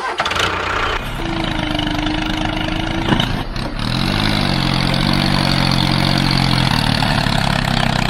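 Tractor engine running with a steady hum. About four seconds in, its pitch rises, then settles into an even idle.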